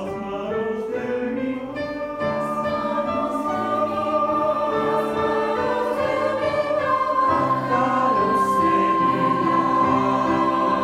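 Youth choir singing sustained chords in several parts, a high note held from about seven seconds in.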